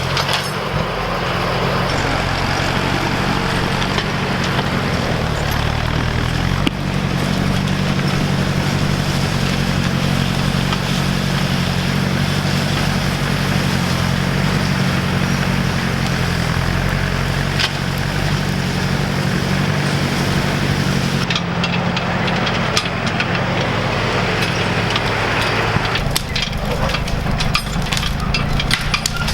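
Ford 641 Workmaster tractor engine running steadily at a constant speed. Near the end the engine note drops away and a run of sharp cracks and snaps follows.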